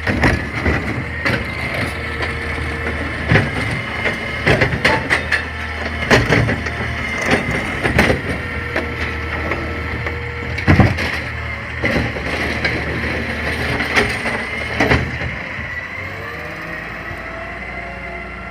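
CNG garbage truck running with a steady high whine while refuse is dumped and crushed into its hopper: a string of sharp knocks, cracks and crunches over the engine hum.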